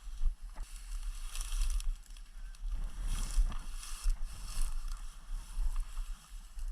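Wind buffeting the microphone, a heavy uneven rumble, with a few patches of rustling hiss.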